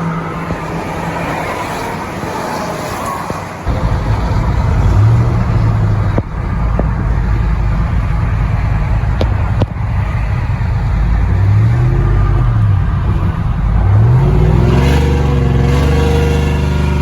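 A steady hum, then about four seconds in the truck's 5.3-litre V8 comes in loud and runs with a few revs, its pitch rising and falling.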